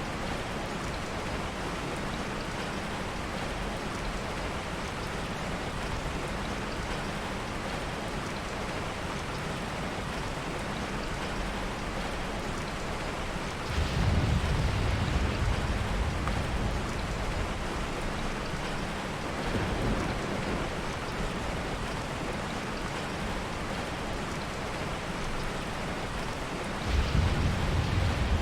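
Steady heavy rain, with low rolls of soft thunder about halfway through, a weaker one a little later, and another near the end.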